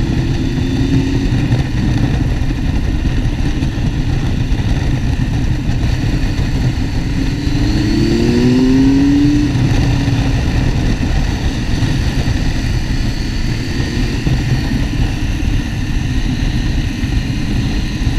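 Motorcycle engine running as the bike is ridden at road speed, its note rising for a moment about eight seconds in as the rider accelerates.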